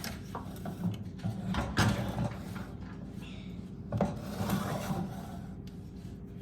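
Rubbing and scraping noises in two main bursts of about a second each, with a few light knocks.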